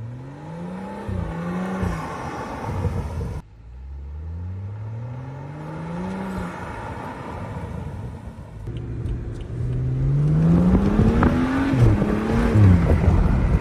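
2012 BMW 335i's turbocharged inline-six accelerating in three separate pulls, the engine note climbing steadily in pitch each time. Each pull cuts off abruptly. The third pull is the loudest, and its revs rise and then drop near the end.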